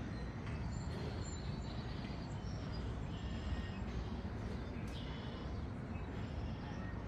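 Open-air ambience at a high overlook: a steady low rumble of noise with a few faint bird chirps scattered through.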